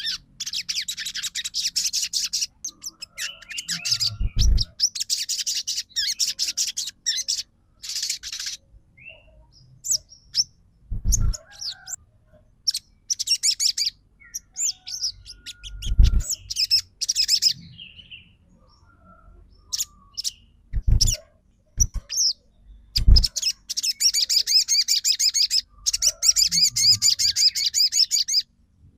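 Sogon bird song: long bursts of rapid, chattering trills, repeated with short pauses between them, plus a few brief low thumps scattered through.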